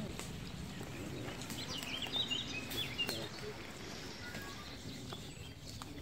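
A small bird chirping: a quick run of short high notes about two seconds in, over faint murmuring voices and a few light clicks.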